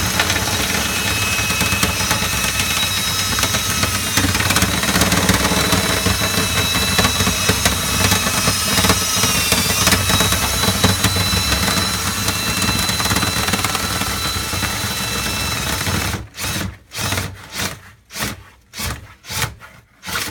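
Power tool motor running steadily while cleaning out a dryer vent duct, with a high whine over a dense rushing noise. From about three-quarters of the way in, it is switched on and off in about six short bursts.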